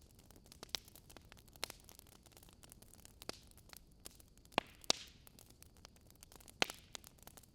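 Wood fire crackling in a fireplace: scattered sharp pops and snaps over a soft hiss, with a louder pair of pops just past the middle and another strong pop near the end.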